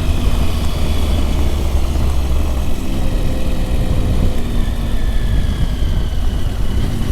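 Motorcycle engine running steadily while riding, under a heavy low rumble of noise that eases about halfway through.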